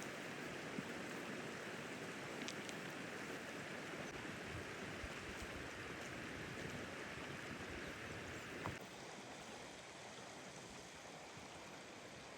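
Steady rushing of running water, like a mountain stream, with a faint tap or two; it drops a little in level about nine seconds in.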